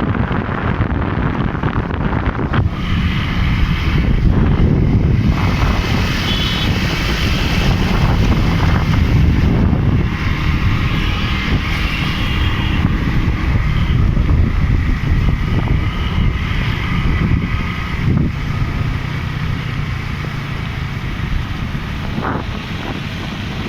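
Wind buffeting the microphone of a moving vehicle, over a steady rumble of road and traffic noise.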